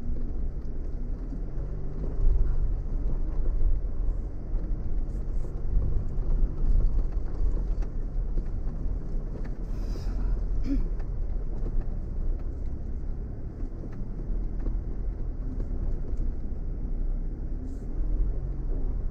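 Off-road vehicle crawling over a rocky dirt track: a steady low engine and drivetrain rumble whose pitch rises and falls with the throttle. A couple of sharp knocks come about halfway.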